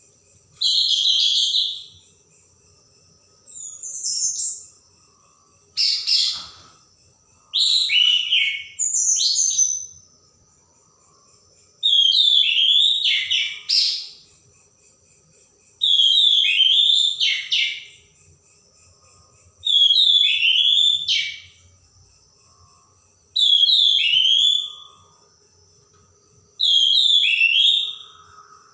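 Orange-headed thrush singing vigorously: short phrases of sharp, falling notes, repeated every three to four seconds with brief pauses between.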